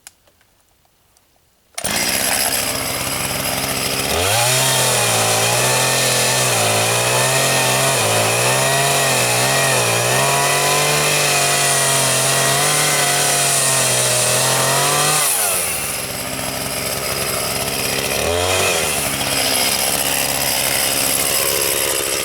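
Chainsaw running hard and cutting, its engine note wavering up and down under load. It cuts in suddenly about two seconds in, eases off about fifteen seconds in, and is revved briefly again a few seconds later.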